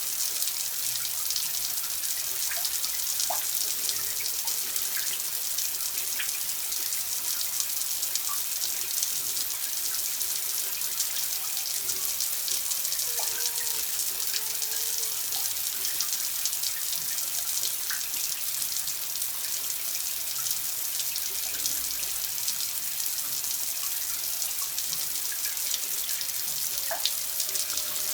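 Water running in a steady, unbroken stream: a continuous high hiss with small plinks and glints scattered through it.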